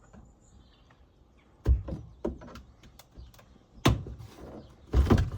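Plastic interior trim panels being pried and knocked loose: a few sharp knocks and clacks, the strongest about two, four and five seconds in.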